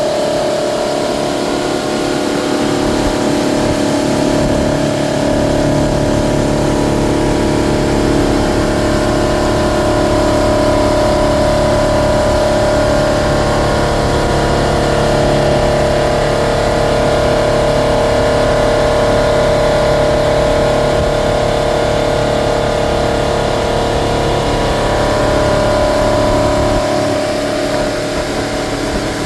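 Boat engine running steadily underway, a constant drone whose pitch wavers slightly, with a low rumble of water and wind beneath it.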